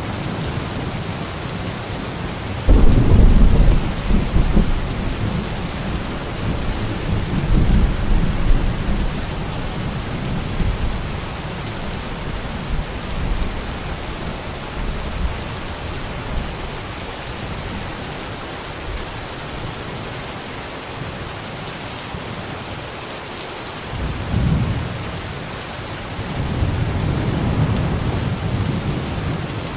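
Steady rain falling in a thunderstorm, with rolls of low thunder. One roll starts suddenly about three seconds in and rumbles on, another comes a few seconds later, and further rumbling builds near the end.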